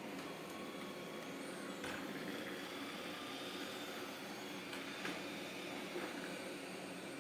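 Robot vacuum cleaner running with a steady motor whir and hum, with a few short knocks along the way.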